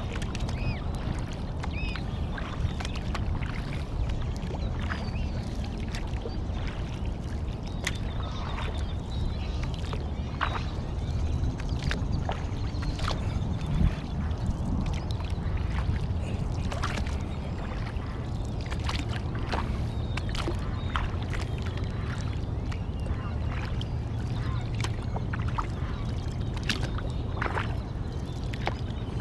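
Small splashes and drips of water around a sit-inside sea kayak, irregular and scattered, over a steady low rumble.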